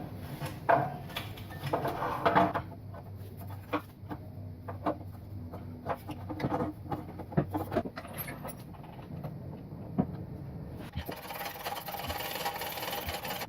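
1985 BMW 318i's M10 four-cylinder engine idling, with irregular sharp ticks and pops and a louder hiss in the last couple of seconds from a huge exhaust leak at the manifold-to-downpipe flange, still leaking despite a freshly replaced gasket.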